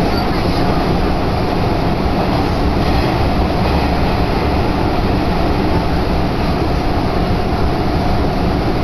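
Steady, loud running noise of a commuter train heard from inside the car as it travels through an underground tunnel: an even rumble of wheels on rails with no letup.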